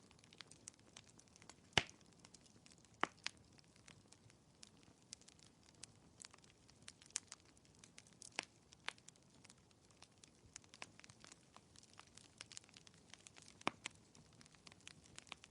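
Fireplace fire crackling softly: irregular small snaps and pops, with a few louder pops about two and three seconds in and again near the end.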